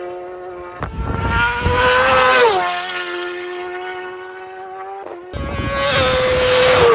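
Two racing superbikes pass at high speed one after the other, about four seconds apart. Each engine note rises as the bike approaches and drops sharply as it goes by.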